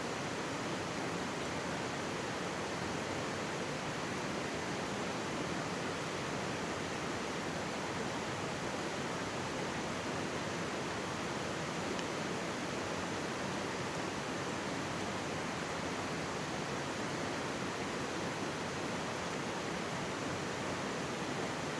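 Mountain stream running close by, a steady, even rush of water with no change in level.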